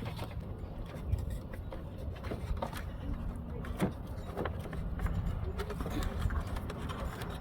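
Scattered light plastic clicks and knocks as the old filter is pulled out of its plastic housing, over a steady low rumble.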